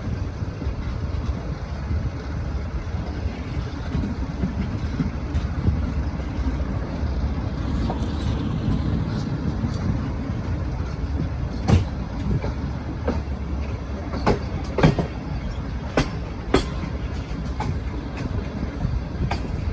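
Passenger train running with a steady low rumble. In the second half come a series of sharp metallic clacks, about six of them standing out.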